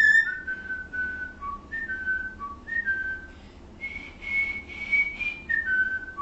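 Pet cockatiel whistling a learned tune: a string of clear notes stepping up and down, with a higher run of longer notes about four seconds in.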